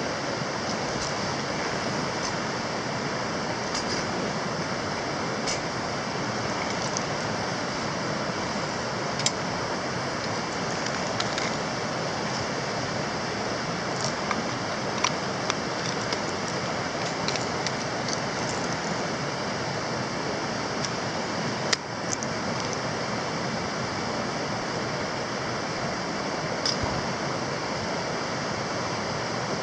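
Wood campfire crackling, with scattered sharp pops over a steady rushing hiss.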